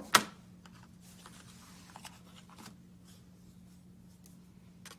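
Craft supplies being handled on a tabletop: one sharp knock just after the start, then faint scattered taps and rustles over a steady low hum.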